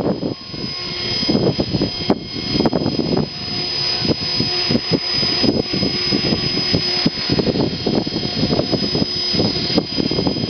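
Blade 400 electric RC helicopter in flight, its motor and rotor drive giving a steady high-pitched whine, with gusting wind buffeting the microphone.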